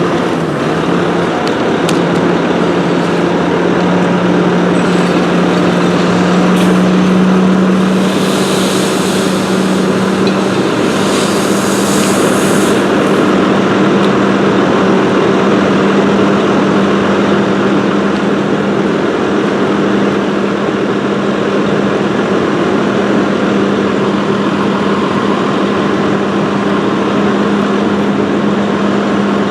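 Fire engine's engine running loud and steady, its hum rising slightly in pitch over the first few seconds and then holding. Two bursts of hiss come about eight and eleven seconds in.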